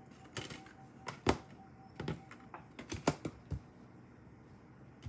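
Tarot cards being handled and laid on a table: a handful of light, irregular taps and clicks.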